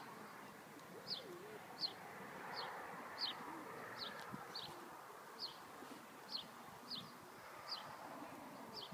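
A small bird repeating a short, high, falling call note about once every three-quarters of a second, faint against a soft outdoor background hiss.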